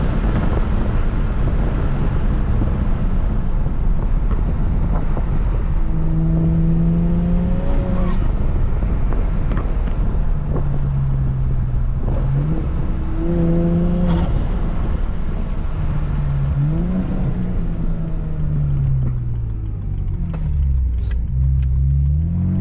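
BMW 335i's N54 twin-turbo inline-six engine driving: heavy rushing wind and road noise for the first several seconds, then the engine note stepping and gliding up and down several times, dropping low near the end and rising again.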